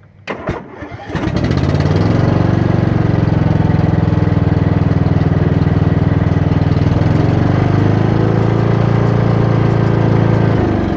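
Cub Cadet XT1 lawn tractor engine starting on a test run after a throttle control repair: a few clicks of the starter, then it catches within about a second and runs steadily. Its pitch shifts slightly near the end.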